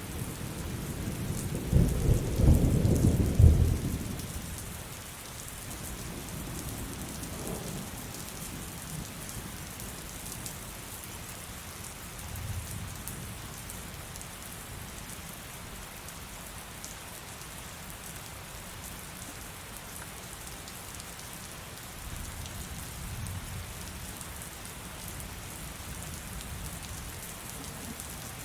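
Heavy rain falling steadily, with a loud clap of thunder rumbling about two seconds in and fainter rolls of distant thunder later on.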